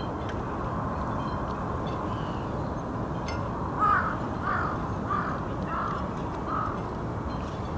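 A bird calling five times in a row, a little over half a second apart, over steady outdoor background noise.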